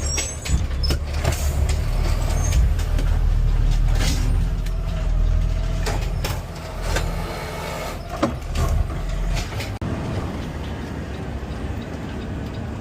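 Garbage truck engine running as the truck drives, with clicks and rattles from the cab. The low rumble is loudest in the middle and eases off near the end as the truck slows.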